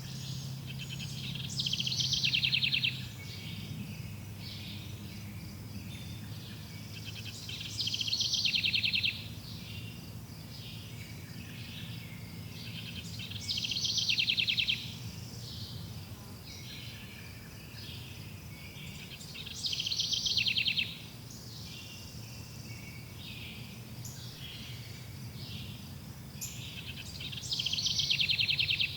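A bird singing the same short, fast trilled song about every six seconds, five times, each phrase lasting about a second and a half. Softer continuous chirping of other birds or insects and a low steady drone run underneath.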